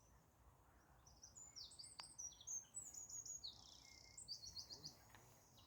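Faint birdsong: a quick run of high chirps and trills starting about a second in, with a second short burst near the end, and a single faint click partway through.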